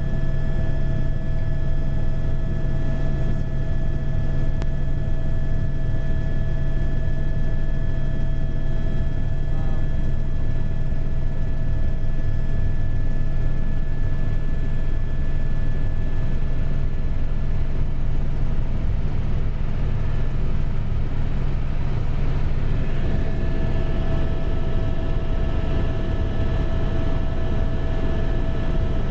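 Helicopter in flight, heard from on board: a loud, steady low drone with several steady whining tones above it, unchanging throughout.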